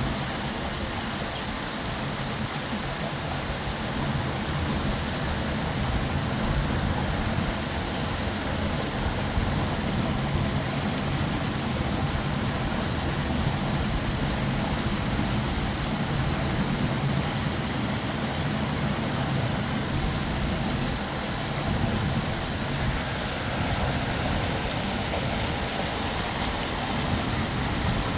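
Steady rushing of a flowing river, an even noise without breaks.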